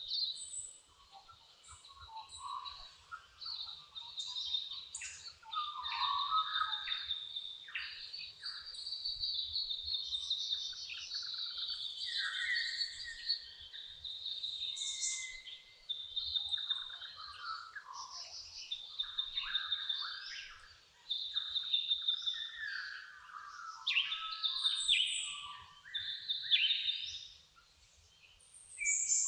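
Dawn chorus: several birds singing and chirping at once, with overlapping whistled phrases and trills that dip briefly a couple of times.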